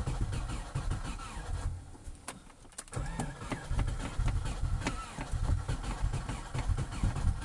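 Subaru Impreza flat-four boxer engine with an open exhaust, cold-starting at about −20 °C. It runs unevenly, nearly dies for about a second around two seconds in, then fires again and keeps running.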